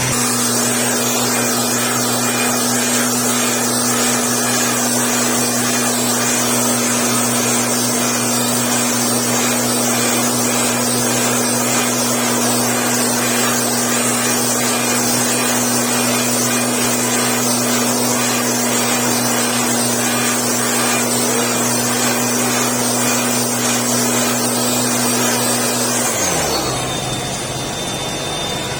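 Motorized blower running steadily at full speed with a strong rushing hiss, blowing dust off chili plants; near the end its pitch falls as it is throttled down and it keeps running at a lower speed.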